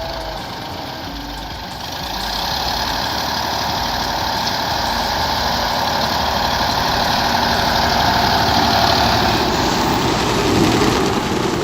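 Heavy truck engine running steadily, growing louder over the first few seconds.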